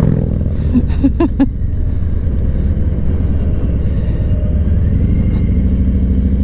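Steady low rumble of a running vehicle engine with road noise, and a few short higher sounds about a second in.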